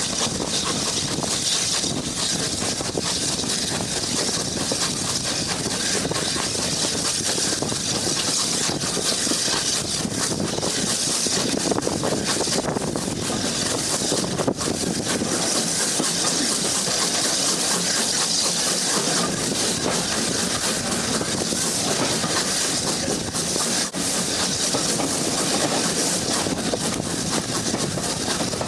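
Railway train running: a steady, continuous noise with hissing and a few faint clicks.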